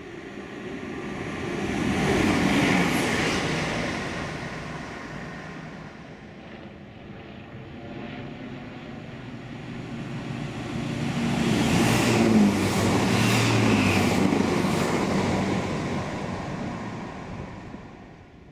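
Two Class 165 Turbo diesel multiple units passing through a station one after the other, each one's engine and wheel noise swelling and then fading. The second, longer pass carries a quick run of sharp clicks from the wheels on the rails.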